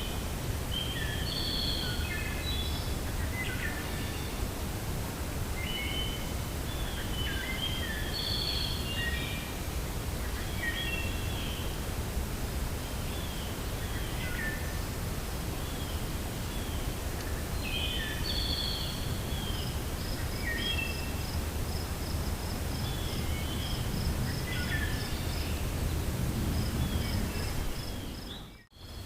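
Wind blowing steadily through a forest while several birds chirp and whistle in short repeated phrases, with a rapid high ticking trill from about two-thirds of the way through. The sound drops out abruptly for a moment near the end.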